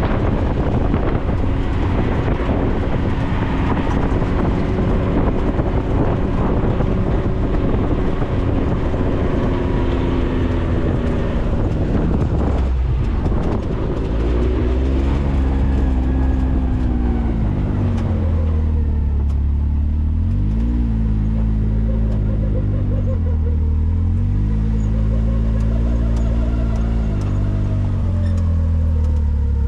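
4x4 vehicle driving on a dirt road. The first half is a steady mix of road rumble and rattle. From about halfway on, the engine's note rises and falls several times as it speeds up and slows down.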